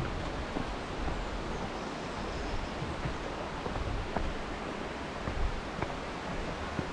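Steady rushing noise with no clear pitch, with a few faint clicks.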